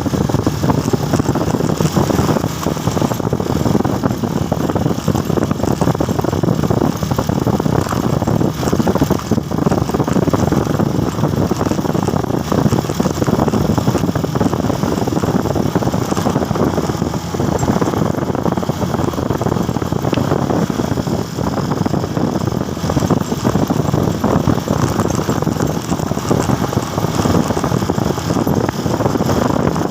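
Motorcycle running at a steady pace on the road, its engine mixed with a constant rush of wind and road noise.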